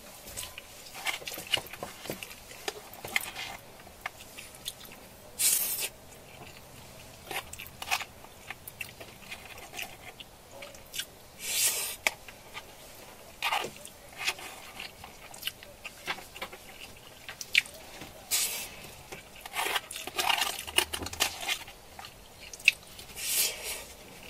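Close-miked eating: irregular chewing and biting with small clicks, and a few louder, longer bursts every few seconds.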